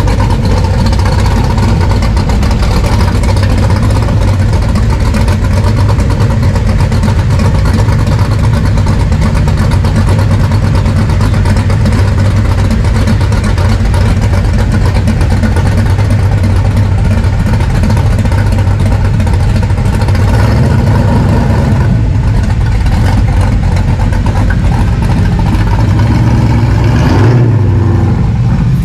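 A car engine running at idle, loud and steady, with a brief change in pitch near the end.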